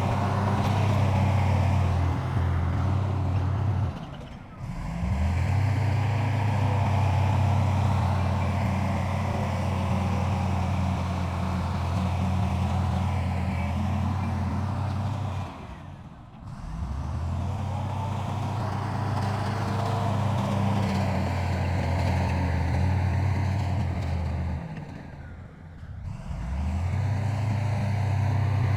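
Diesel engines of heavy earthmoving machinery running steadily with a deep drone. The sound drops away briefly three times, about 4, 16 and 25 seconds in, and picks up again each time.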